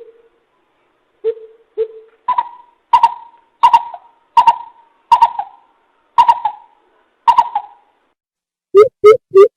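Coucal hooting: a few deep hoots, then a series of higher, evenly spaced hoots about one every 0.7 seconds, and near the end a quick run of loud deep hoots.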